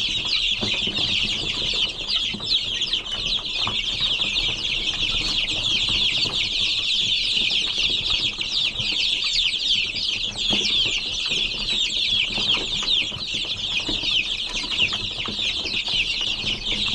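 A flock of young chicks peeping continuously, many short high cheeps overlapping into a steady chorus.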